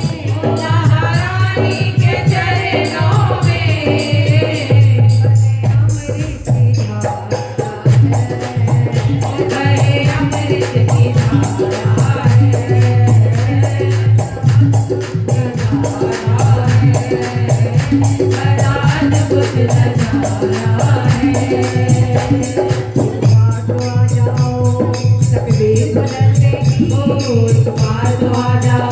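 Hindu devotional bhajan music: a gliding melodic line over a steady low drone and an even beat of jingling, rattling hand percussion.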